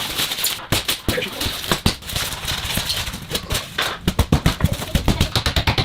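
Hammering: irregular knocks, then a quick run of strikes about six a second in the last two seconds.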